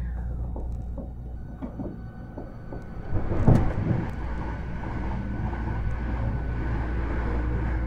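Interior running sound of a Hankyu 1300 series electric train: steady low hum and rumble of the wheels on the rails, with a few sharp clicks early on. About three and a half seconds in comes a loud rush of noise, after which the train runs on steadily with a faint high tone.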